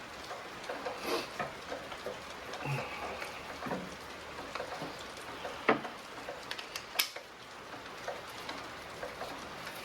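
Steady hiss of rain falling, with scattered small clicks and knocks and two sharper clacks around the middle.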